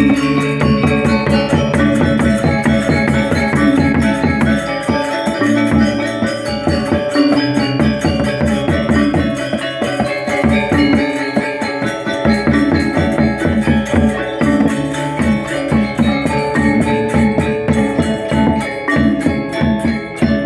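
Balinese gamelan gong ensemble playing: bronze metallophones and gongs struck in rapid, dense patterns, ringing over one another.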